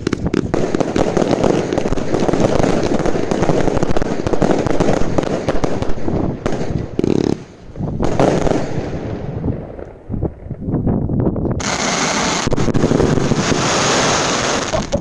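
Fireworks going off in quick succession: a dense run of rapid bangs and crackling, easing to a short lull about ten seconds in, then a sustained crackling hiss near the end.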